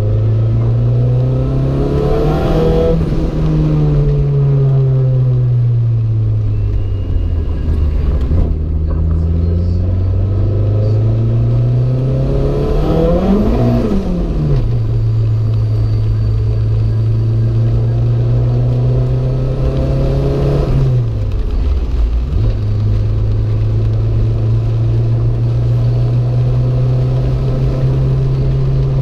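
Renault 5 GT Turbo's turbocharged four-cylinder engine under way, its pitch rising and falling with the revs. The engine climbs sharply and drops quickly about halfway through, then holds fairly steady with one brief dip, over steady road and tyre noise.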